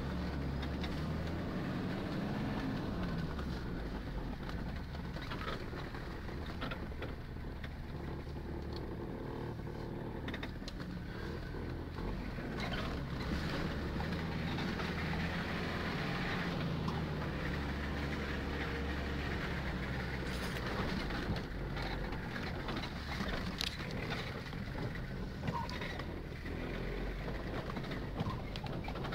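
Off-road vehicle's engine running at low revs, heard from inside the cab, swelling and easing with the throttle. Scattered knocks and rattles come through as the vehicle jolts over the rutted dirt track.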